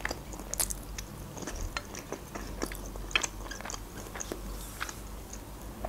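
Close-up chewing of a mouthful of food, with small irregular clicks of the mouth and lips.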